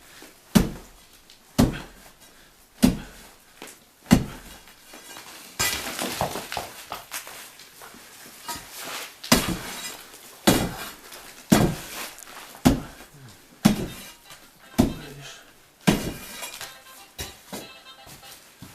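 A metal tool striking a brick wall over and over, about one blow a second, with bits of brick and plaster crumbling and rattling down between the blows.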